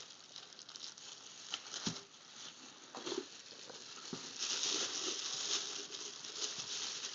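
Packaging rustling, with scattered light knocks and clicks, as ceiling-fan parts are handled and taken from their box. The rustling gets louder about four seconds in.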